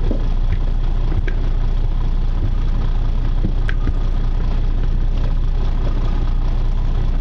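Charter boat's engine running steadily at low revs, a constant low drone, with a few faint ticks over it.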